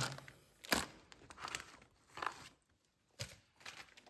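Plastic packaging crinkling and rustling in a few irregular bursts, with a sharp click about three seconds in, as new oil-filter parts are handled and unwrapped.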